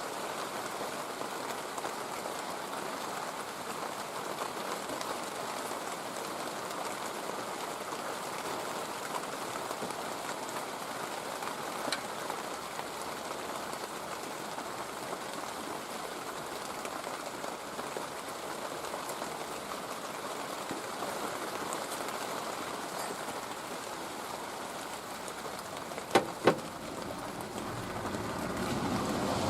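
Steady rain-like noise, even throughout, with two sharp clicks close together near the end.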